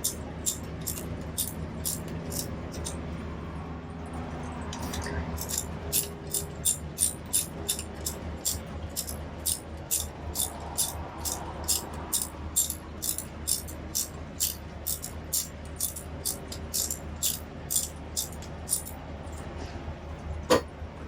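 Rhythmic sharp clicking, about two to three clicks a second, over a steady low hum, with a pause a few seconds in and one louder click near the end.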